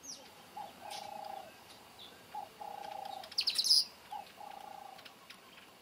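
Bird calls: a low call, a short note followed by a rolling trill, repeated three times about every two seconds, with a loud burst of rapid high chirps a little past halfway.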